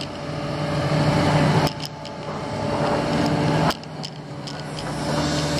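Diesel engines of heavy construction machinery, an excavator and a front-end loader, running with a steady low hum. Twice the noise swells and then drops away suddenly.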